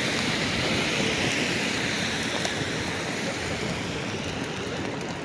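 Steady rushing noise of a city street in a snowstorm, with no distinct event standing out, easing slightly near the end.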